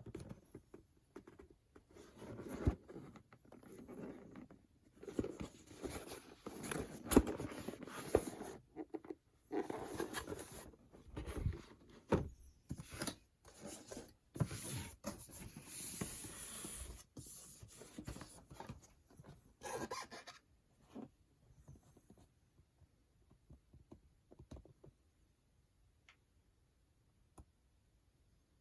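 Irregular rustling and handling noises with occasional knocks, stopping about two-thirds of the way through and leaving only a few faint clicks.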